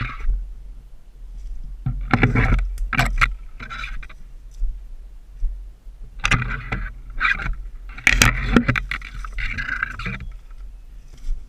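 Irregular bursts of scraping and rustling, the kind made by a player moving with his gear, over a steady low rumble of wind or handling noise on the microphone.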